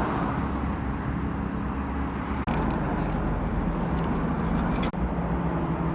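Steady low rumble of a motor vehicle's engine and road noise, with two very brief dropouts.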